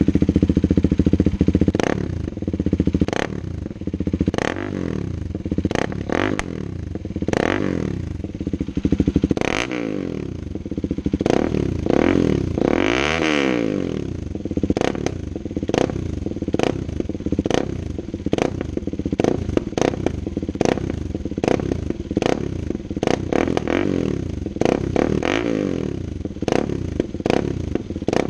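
KTM Duke 390's single-cylinder engine breathing through an IXIL 55 aftermarket exhaust with no dB killer. It idles at first, then is blipped and revved repeatedly, rising and falling in pitch, with the biggest rev about halfway through. A run of sharp cracks and pops runs all through.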